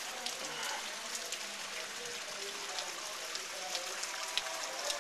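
Steady hurricane rain, with many small, sharp drop ticks.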